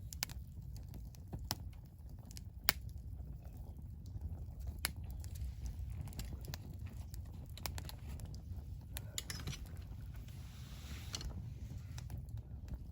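Wood campfire crackling, with irregular sharp pops over a steady low rumble, and a short hiss about ten seconds in.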